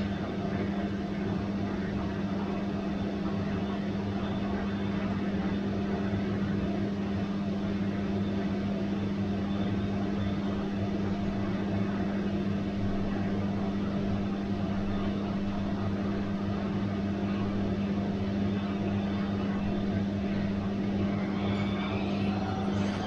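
Bosch washing machine running with a steady low hum over an even whir. Near the end a thin whine starts to rise in pitch.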